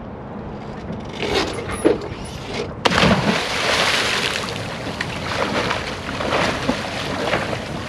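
A person plunging into the water off a rope swing: a sudden loud splash about three seconds in, followed by several seconds of water churning and splashing.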